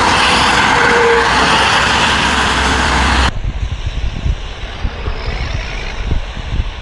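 Steady, loud road traffic noise from heavy vehicles on a highway, which cuts off abruptly a little under halfway through. Uneven low rumbling of wind buffeting the microphone follows.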